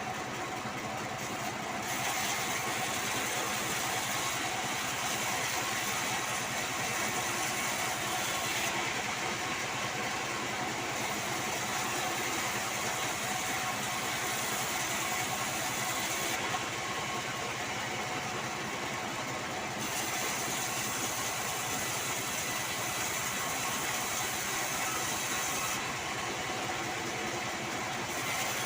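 Band sawmill running and sawing sengon wood: a steady mechanical whir with a high hiss that fades and returns a few times.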